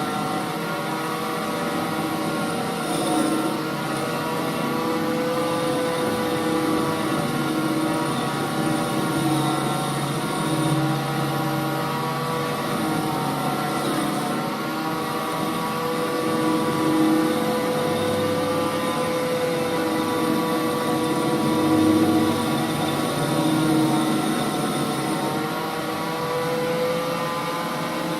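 Holbrook C8 toolroom lathe running under power, a steady hum and whine of several tones from its motor and gearing, while a T-bolt shank is turned down to about 5/16 in.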